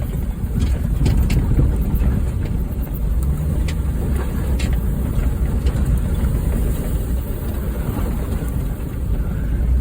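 Honda Fit's four-cylinder engine running as the car drives over rough ground: a steady low rumble with scattered clicks and knocks.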